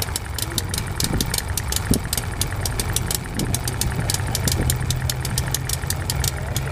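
Small homemade model internal-combustion engine running steadily at idle, with a rapid, even ticking over a low hum.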